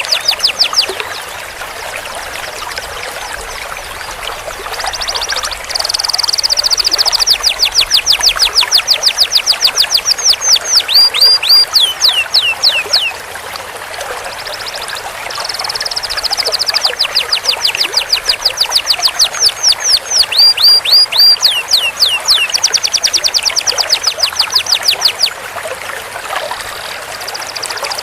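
Domestic canary singing long rolling trills: fast runs of quick falling whistled notes, one bout from about five to thirteen seconds in and another from about fifteen to twenty-five seconds, with shorter phrases between. A steady hiss runs underneath.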